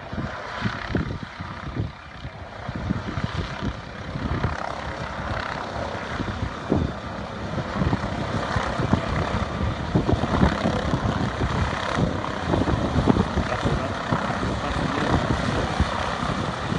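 Helicopter running, with irregular low thumps; the sound grows louder over the first several seconds.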